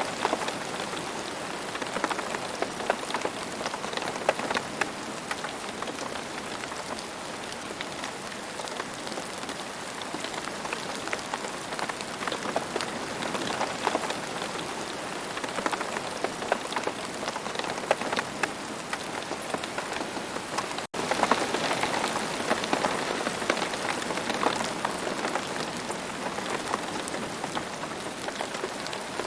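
Steady rain falling, a dense hiss dotted with many separate drops ticking. About two-thirds of the way through it cuts out for an instant and comes back a little louder.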